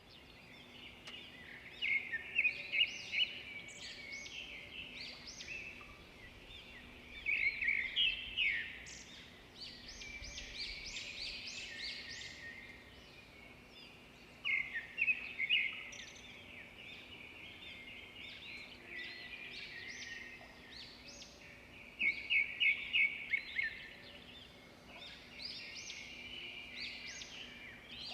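Songbirds singing: quick trilled and chirping phrases that come in loud bursts every several seconds, over a soft steady background.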